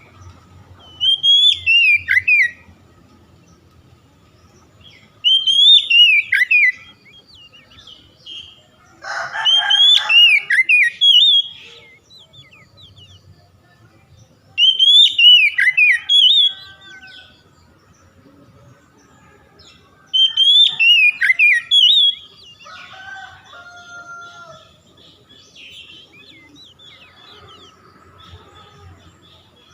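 Oriental magpie-robin (kacer) singing the same short whistled phrase over and over, each phrase about a second and a half long and repeated roughly every five seconds. Fainter bird calls sound in the gaps.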